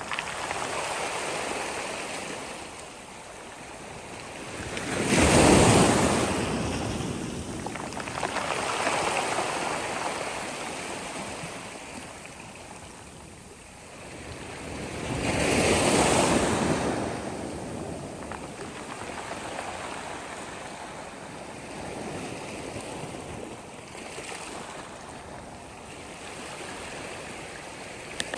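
Sea waves breaking and washing back, the surf swelling and falling away; two bigger waves crash about five seconds in and again about sixteen seconds in, with smaller swells between.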